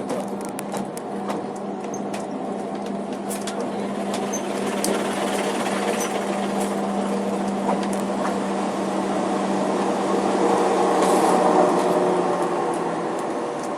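Snowdon Mountain Railway rack train climbing, heard from inside the carriage: a steady locomotive hum under a rumble of running gear with scattered clicks and rattles, swelling louder about ten seconds in and easing off near the end.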